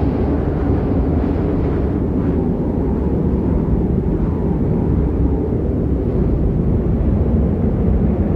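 Strong wind buffeting the microphone: a loud, steady, deep rumble with no let-up.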